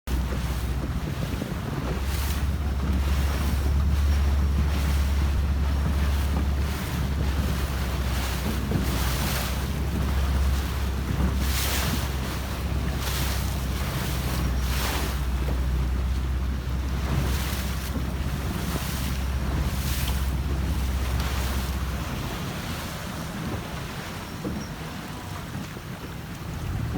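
Wind rumbling on the microphone over water rushing and splashing past a Melges 24 racing sailboat under way, with louder splashes every few seconds. The wind rumble eases off about 22 seconds in.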